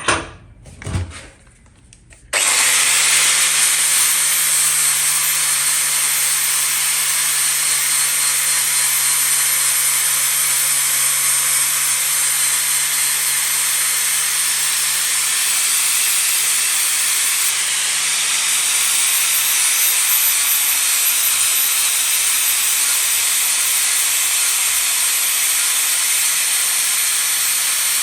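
Two short knocks, then about two seconds in an electric power tool starts and works steadily on steel: a loud, even hiss over a low motor hum. The hum drops out a little past halfway while the hiss goes on.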